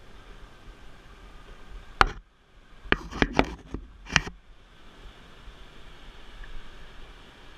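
Sharp knocks: one about two seconds in, then a quick run of four or five more about a second later.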